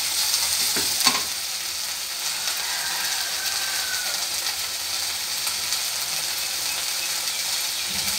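Shallots, dried red chillies and drumstick leaves sizzling in sesame oil in a steel kadai as the greens wilt, with a steady hiss. A wooden spatula knocks and scrapes against the pan a couple of times about a second in.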